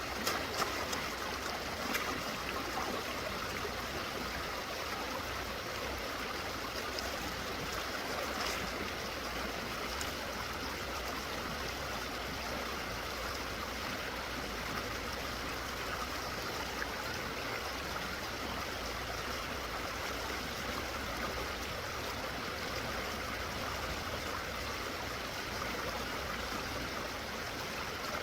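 Stream water running steadily, an even rushing with a few small knocks or splashes in the first seconds.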